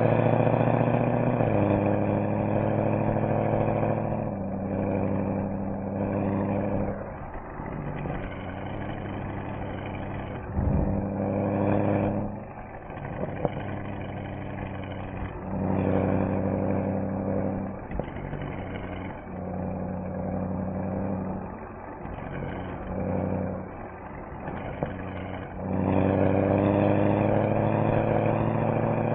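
Mercedes-AMG SL63's V8 engine and exhaust on the move, the engine note swelling and falling back again and again as the throttle is applied and lifted. The pitch drops a step about a second and a half in.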